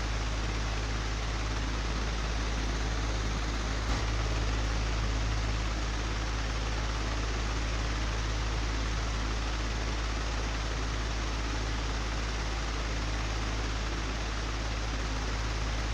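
Old, broken electric fan running with a steady rushing whir over a low hum. A single brief click about four seconds in.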